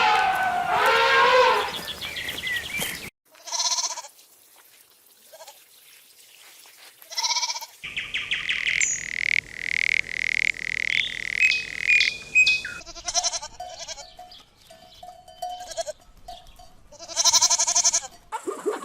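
A succession of separate animal calls, several of them bleats, with a stretch of rapid, high chirping in the middle.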